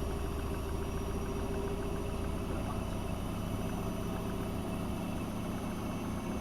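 AEG Öko-Lavamat 72520 washing machine running a boil-wash programme: a steady motor hum over a low rumble.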